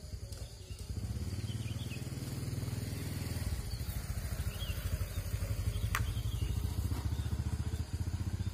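An engine idling with a steady low rumble, and a single sharp click about six seconds in.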